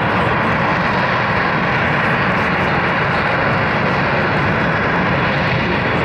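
Harrier jump jet's Pegasus turbofan engine running, a loud steady rushing noise that holds level without a break.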